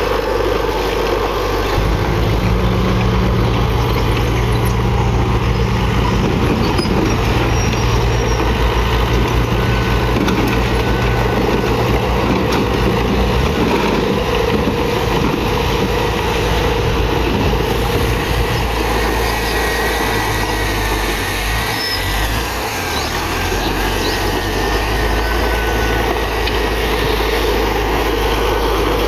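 Heavy diesel earthmoving machinery running steadily, its low engine note shifting a few times as the load changes.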